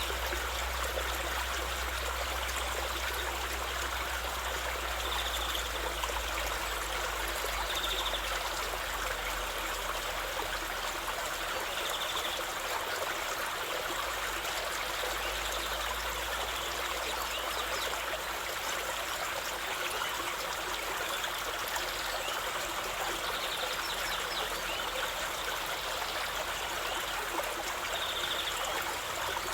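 Steady flowing water of a stream, an unbroken trickling rush with no change in level.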